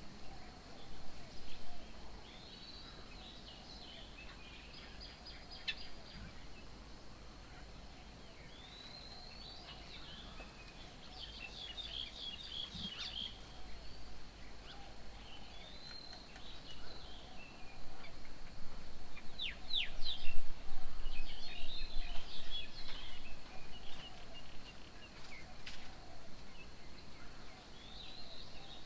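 Several birds chirping and calling: short high chirps and trills throughout, densest about two-thirds through. A low rumble rises under them around the same point.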